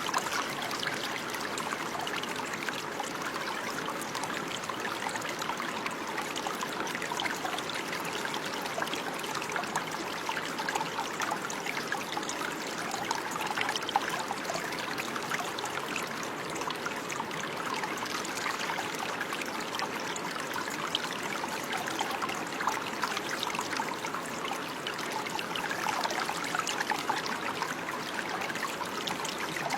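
Shallow stream of running water, trickling and gurgling steadily.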